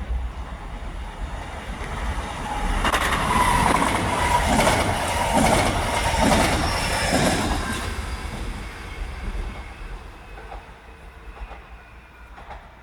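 Trenitalia ETR 104 "Pop" electric multiple unit running through a station without stopping. The rush of wheels and clicks over rail joints swells to its loudest a few seconds in, with a thin whine at first, then fades as the train moves away.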